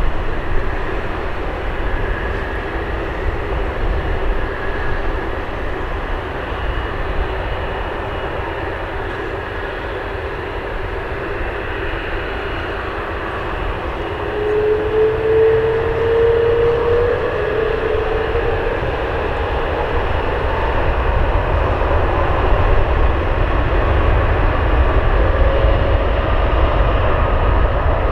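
Jet airliner engines running, with tones that glide slowly upward in the middle and a rumble that grows louder toward the end.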